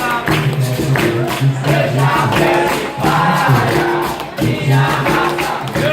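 Capoeira roda music: voices singing with a group answering in chorus, over a steady rhythm of pandeiro and berimbau.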